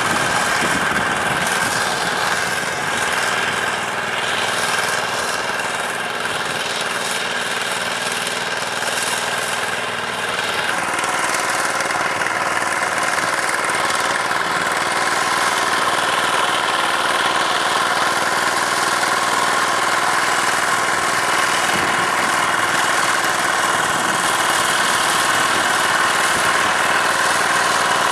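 Diesel tractor engine running steadily under work, its tone changing about ten seconds in.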